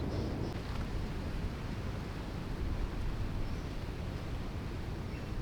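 Steady outdoor rumble like wind on the microphone, with a few faint bird chirps.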